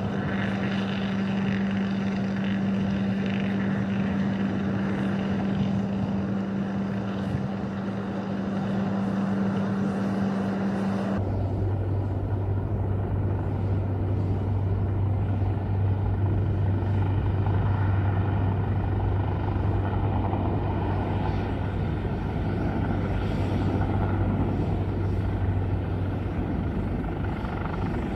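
Aircraft engines running at an airport, a steady drone with a constant hum. About eleven seconds in the sound switches abruptly to a lower steady hum.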